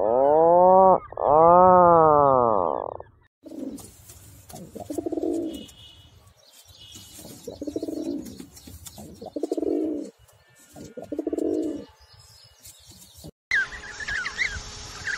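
Animal calls cut together from separate clips: first two long calls that rise and fall in pitch, then a run of about six low, rounded hoots a second or so apart, and high bird chirps near the end.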